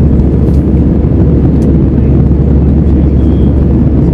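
Airbus A320's jet engines at takeoff power: a loud, steady low rumble.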